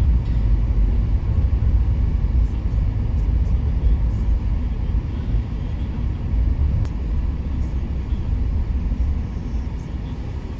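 A steady low rumble of a car driving on a snowy, icy road, heard from inside the cabin, with a few faint clicks.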